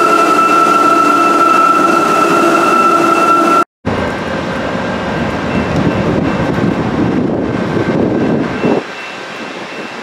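Passenger train at a station platform giving off a steady whine of several held tones, which cuts off abruptly a little past three seconds. It is followed by a steadier rumble of a train at a station, which drops in level near the end.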